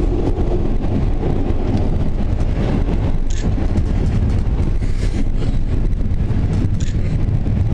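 Passenger train running along the line, heard from inside a carriage: a loud, steady low rumble of the wheels on the track, with a few brief high clicks or squeaks on top.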